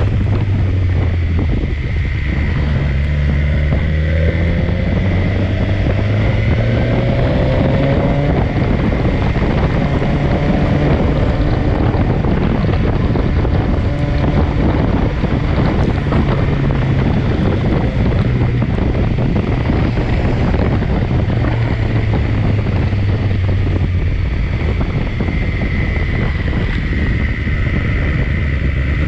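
Heavy wind noise on the microphone while riding a BMW S1000XR. Underneath, the inline-four engine runs steadily, with its note rising under acceleration a few seconds in.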